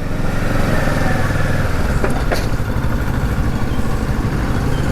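Kawasaki motorcycle engine running steadily under way, its fast exhaust pulses mixed with a rush of wind noise.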